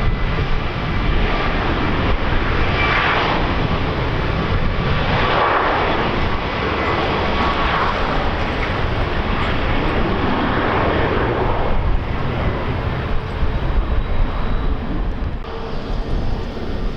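Aircraft engines running, with a faint steady turbine whine in the first few seconds. Heavy wind buffets the microphone throughout, with a deep rumble and swells every few seconds.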